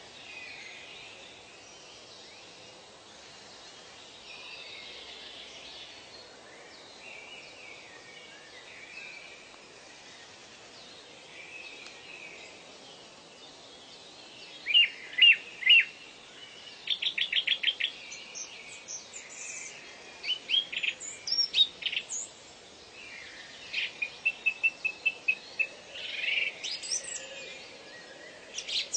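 Birds calling in a forest soundscape over a steady background hiss of ambience. About halfway in, loud short chirps begin, several quick series of sharp notes, then a fast even trill of repeated notes near the end.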